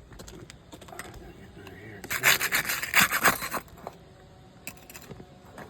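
A tool scraping and prying under an asphalt roof shingle to break it loose from its nails, with a loud run of rapid scraping strokes about two seconds in that lasts about a second and a half, amid scattered small clicks and taps.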